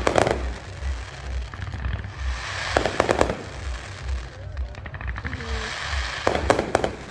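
Fireworks going off: three clusters of sharp bangs and crackles about three seconds apart, with a crackling hiss between them.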